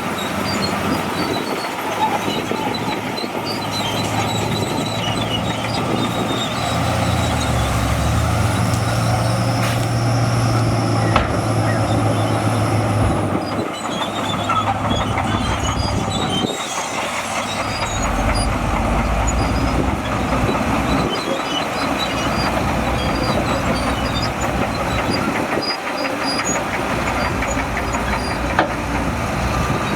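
Crawler bulldozer working: its diesel engine running under load while the steel tracks clank and squeal, the engine note shifting a few times.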